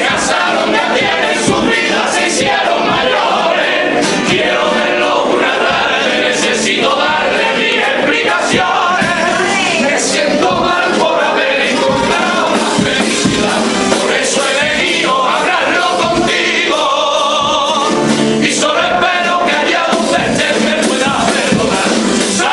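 A group of voices singing a pasodoble together in chorus.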